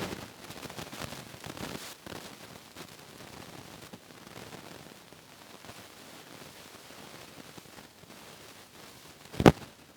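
Rustling and crackling handling noise for the first two seconds, then a faint steady hiss. One sharp knock comes near the end and is the loudest sound.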